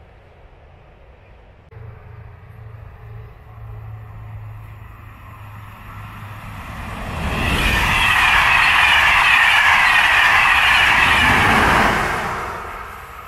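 Electric passenger train passing close at speed: the rush of wheels on rails builds as it approaches, stays loud for about four seconds as it goes by, then fades away near the end.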